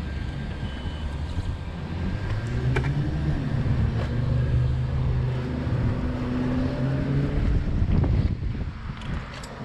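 A motor vehicle's engine running close by, a low steady hum that rises a little a few seconds in and dies away near the end, with wind on the microphone.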